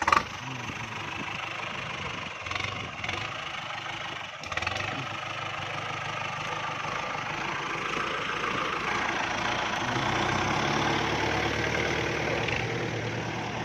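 Kubota tractor's diesel engine running steadily, getting a little louder in the second half.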